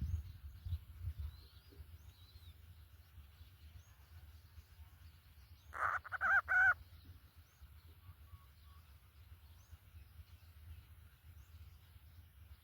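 A bird gives one loud, harsh call of three quick pulses about six seconds in, over faint high chirps of small birds and a steady low rumble of outdoor noise with a few thumps at the start.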